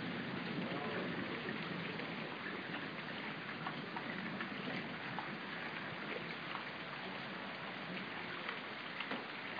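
Steady rain falling in a thunderstorm, a dense hiss with many small drops ticking close by.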